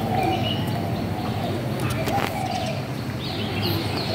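Birds calling in trees: a low cooing phrase repeated a few times, with short high falling chirps from smaller birds in the second half.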